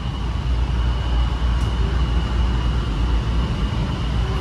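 Honolulu Skyline metro train running along its elevated guideway, heard from inside the passenger car: a steady low rumble with a constant high-pitched whine over it.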